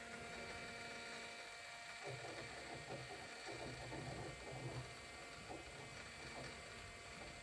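Faint steady electric hum of the fuel pump on a 6.7 L Power Stroke diesel running with the key on, priming the fuel system and purging air after the engine was apart. A rougher, uneven rattle comes in about two seconds in and fades near five seconds.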